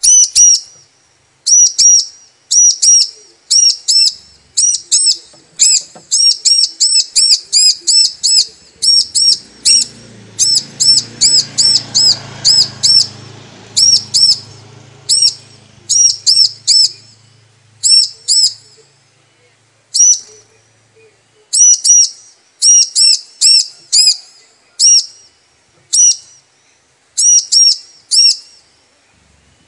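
Female bar-winged prinia (ciblek) calling: sharp, high chirps in quick groups of two or three, repeated over and over with short gaps, the kind of call used to lure and excite a male. A low hum runs under the calls for several seconds in the middle.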